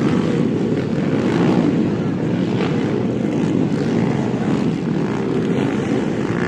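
Several small motocross bike engines running together in a steady, mixed drone.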